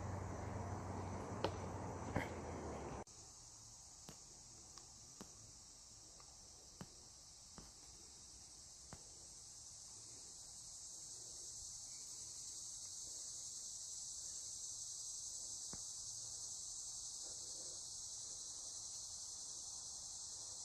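Steady, high-pitched chorus of insects in the woods, growing slightly louder later on. For the first three seconds a louder low rumble lies under it and cuts off abruptly, and a few faint clicks follow.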